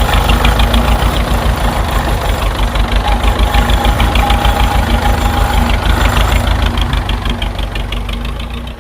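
Tractor engine idling with a steady rhythmic chug, fading out near the end.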